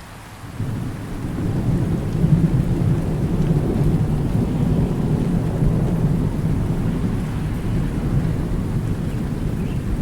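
Thunder rolling over steady rain: after a brief drop in level at the start, a low rumble swells in about a second in and rolls on under the hiss of rain.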